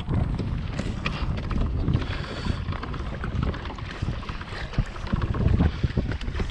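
Strong wind buffeting the microphone in a gusting low rumble, with choppy water slapping and knocking against a plastic pedal kayak's hull in short irregular taps.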